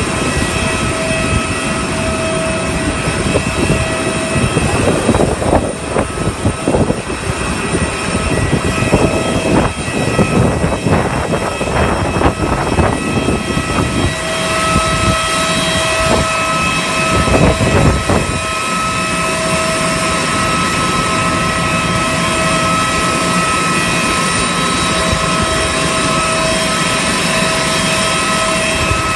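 Jet airliner engine and cabin noise: a loud steady rush with a whine of several steady tones that fade in and out, and irregular knocks and rattles in the first half and again briefly later.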